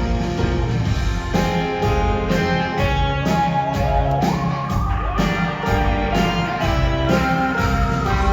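Live rock band playing an instrumental passage between sung lines, led by guitar, with a lead line that slides up about halfway through.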